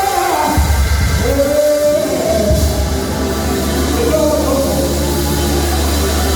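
Church band music with sustained bass notes and a voice singing long, gliding notes over it.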